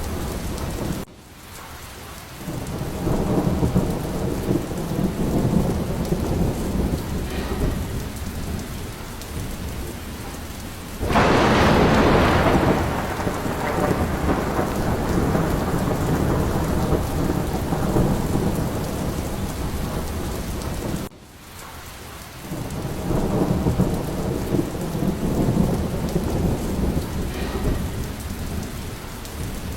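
Steady heavy rain with rolling thunder rumbling throughout. A loud thunderclap breaks about eleven seconds in and rumbles away slowly. The sound drops away abruptly for a moment twice, about a second in and again about twenty seconds in.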